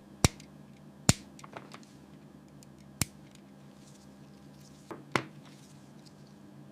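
A few scattered sharp clicks and taps, the loudest near the start and about three seconds in, over a faint steady hum.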